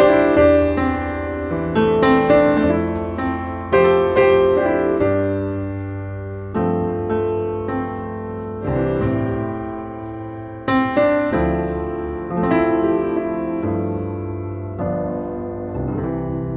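Background piano music: slow chords struck every couple of seconds and left to ring, over low bass notes.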